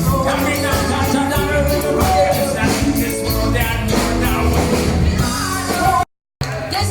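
Rock music with a singer and drums, loud and steady; it cuts to silence briefly near the end and then resumes.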